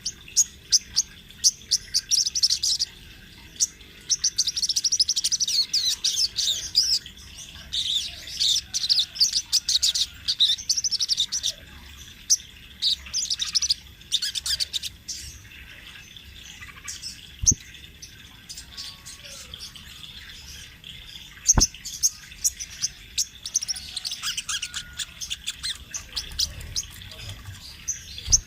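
Sogon trotol spiderhunter singing in long rolling runs of rapid, high chirps and trills, with a quieter pause in the second half broken by two sharp clicks before the song resumes near the end.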